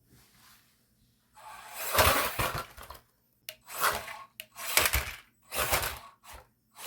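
Axial SCX24 1/24-scale RC crawler on monster truck tires driven in short throttle bursts, clattering and rattling about five times, the loudest and longest about two seconds in.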